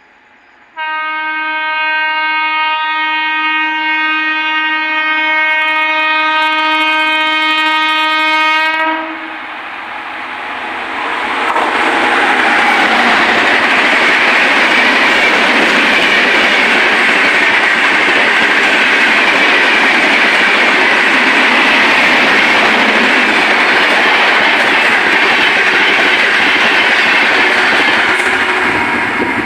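An Indian Railways express train's horn sounds one long, steady blast for about eight seconds. Then the train passes at speed, around 130 km/h: a loud, steady roar of wheels on rail builds over a couple of seconds and holds to the end.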